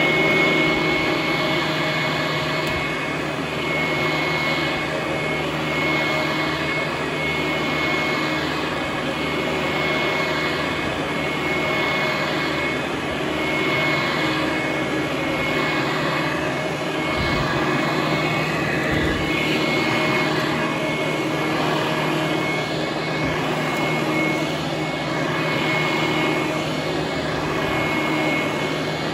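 Vintage Hoover Conquest commercial direct-air upright vacuum running steadily, with a constant high whine over its airflow noise, the level gently swelling and easing as it works the carpet.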